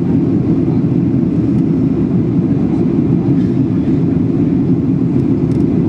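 Steady cabin noise of a Boeing 737-800 in flight: the CFM56-7B engines and the rush of air past the fuselage, a constant low noise with no change.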